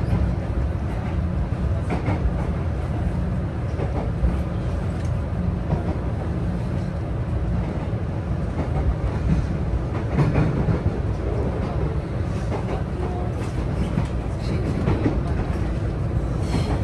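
Inside-the-car running noise of a JR West 323 series electric train in motion: a steady low rumble of wheels on rail, with a few faint rail-joint clicks.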